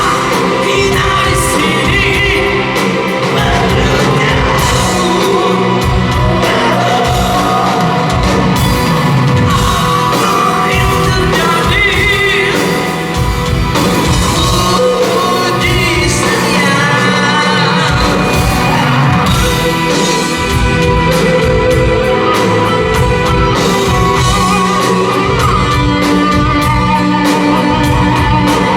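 Rock band playing live with a sung vocal line over a steady drum beat, in raw, unmixed concert sound.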